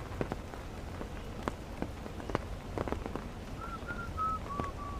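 Steady rain, with single drops ticking sharply and irregularly close by. Near the end, five short whistled notes in a row, each a little lower than the last.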